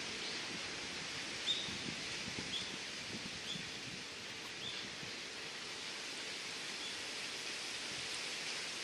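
Steady outdoor background hiss, with a small bird giving about six short, high chirps over the first seven seconds, the loudest about a second and a half in.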